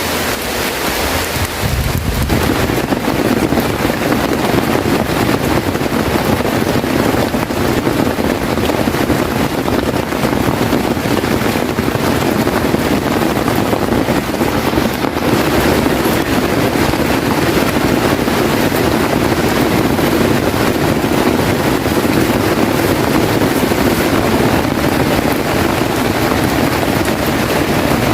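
Heavy rain falling in a steady loud rush, with wind buffeting the microphone; it thickens about two seconds in.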